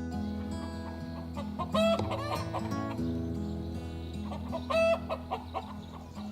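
Domestic chickens clucking in short bursts of calls, one cluster about two seconds in and another near five seconds, over steady background music.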